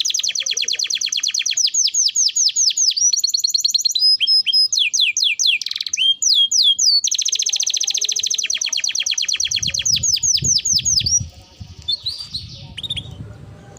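Canary singing: long, fast rolling trills of repeated sweeping notes, broken by a run of varied slurred chirps, the song softening near the end. A low rumble runs underneath in the second half.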